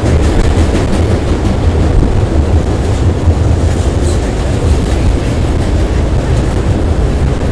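Auto rack freight cars rolling over a steel trestle bridge: a loud, steady rumble heavy in the low end, with occasional light clicks from the wheels.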